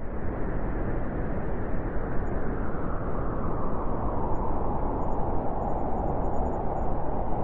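Blizzard wind blowing steadily, a dense rushing noise with no gusts or breaks.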